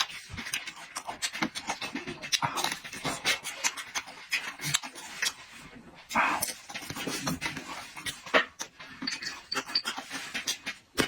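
Close-miked eating: wet chewing and lip-smacking in quick, irregular clicks, with breaths through the nose and mouth.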